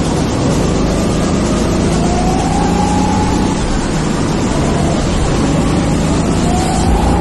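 Go-kart engine running at speed under the rider, its pitch climbing twice as it accelerates, over a constant rush of wind and track noise.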